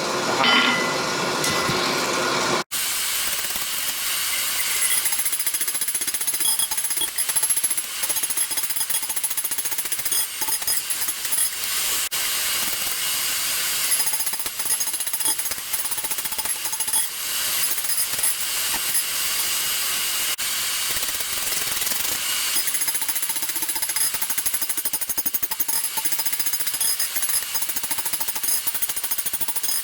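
Rapid, continuous hammer blows on hot steel at an anvil, with a steady metallic ring, broken once briefly about three seconds in.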